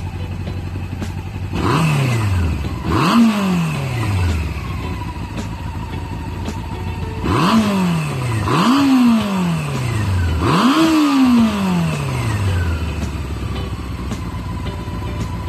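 Motorcycle engine exhausting through a modified stock muffler, idling and then blipped five times: two revs about a second and a half apart, a pause, then three more, each rising quickly and falling back slowly to idle.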